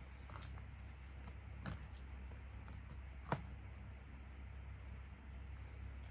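Faint eating sounds: soft, moist chewing of fried chicken, with two short clicks, the sharper one about halfway through, over a steady low hum.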